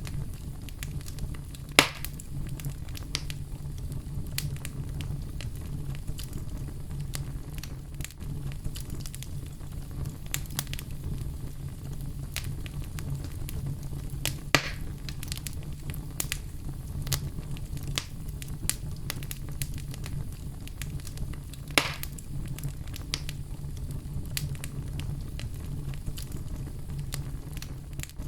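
Oak wood fire burning in a fireplace, crackling steadily with many small ticks over a low rumble, and three louder sharp pops at about 2, 14 and 22 seconds in.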